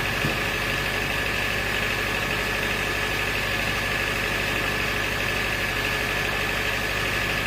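Sawmill machinery running steadily: a low, evenly pulsing motor hum under a steady high whine, with no change in pitch or load.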